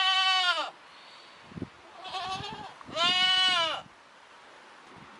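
Young livestock bleating: a loud, high call right at the start, a fainter shorter one about two seconds in, and another loud call about three seconds in, each under a second long.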